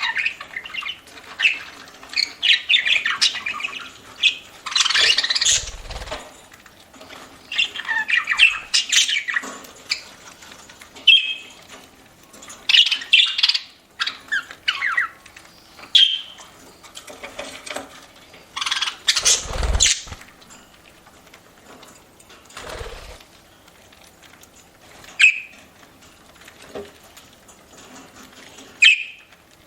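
Budgerigars chirping and squawking in short, rapid calls, busy in the first half and sparser later. There are a few short thumps, the loudest just before 20 s.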